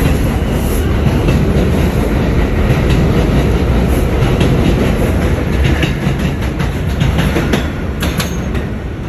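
R142 subway car running on the rails: a steady loud rumble with the clickety-clack of wheels over rail joints. It gets slowly quieter near the end.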